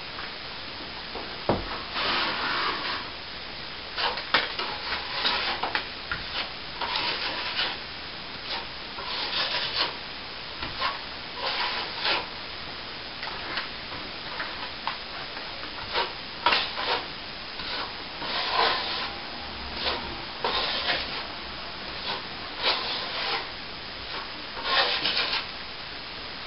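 Steel plastering trowel stroked across a ceiling patch, polishing the thin finish coat of plaster: repeated scraping strokes, irregular, roughly one every second or two.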